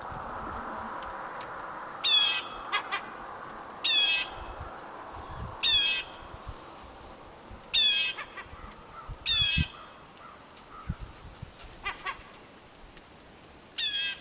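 Gulls calling: loud, harsh calls repeated roughly every two seconds, about six in all.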